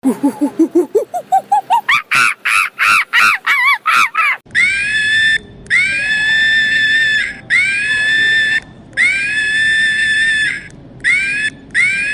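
Monkey calling: a quick run of hoots that climbs steadily in pitch for about four seconds, then a string of long, high, steady screams with short breaks between them.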